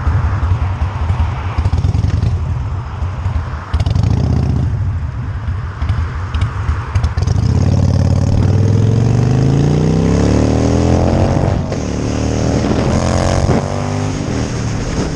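Motorcycle engine under way, at first a low uneven rumble, then accelerating with a rising engine note. It drops back once at a gear change and climbs again.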